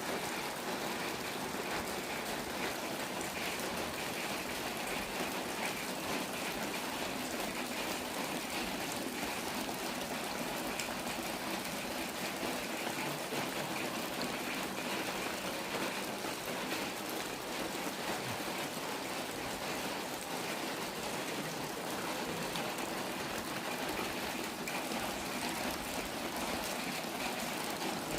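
Steady rain falling, an even hiss of drops that doesn't let up.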